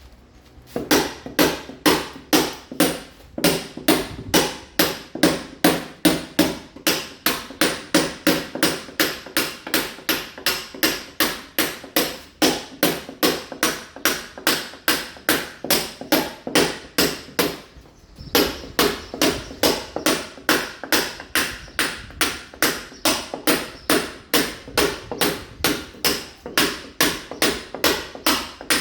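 Mason's hammer striking a chisel against a masonry wall in a steady run of sharp blows, about three a second, with brief pauses just after the start and about two-thirds through: the wall is being chipped to key it for laying ceramic tile.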